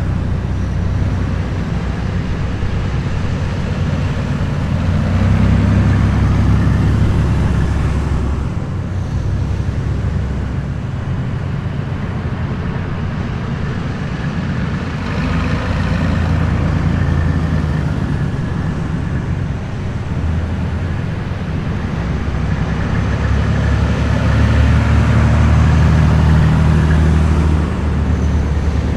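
Heavy military vehicles driving past in a column, their engines a continuous low rumble that swells twice as the nearer ones pass, about a quarter of the way in and again near the end.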